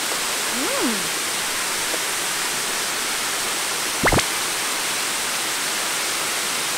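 Waterfall rushing in a steady, even roar. A short rising-and-falling squeak comes near the start, and a quick sharp sweep up and down about four seconds in.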